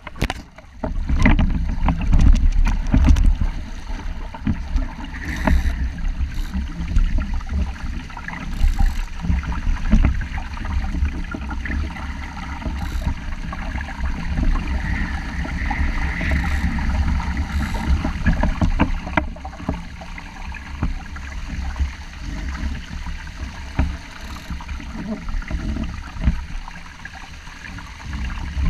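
Water rushing and splashing along the hull of a 470 sailing dinghy in strong wind, under heavy wind buffeting on the microphone that gives a deep, uneven rumble, with scattered short knocks.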